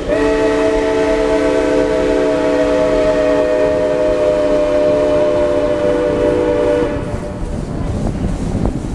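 Narrow-gauge steam locomotive's chime whistle sounding one long, steady, multi-note blast of about seven seconds, then cutting off, leaving a low rumble of the train.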